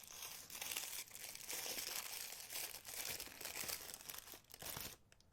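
Packaging crinkling and rustling as it is handled, with a fine crackle that stops about five seconds in.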